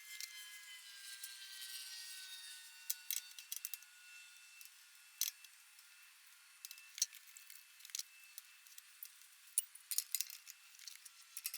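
Scattered, irregular sharp clicks and light clinks, as of tools or small metal parts being handled, with a faint hiss in the first few seconds.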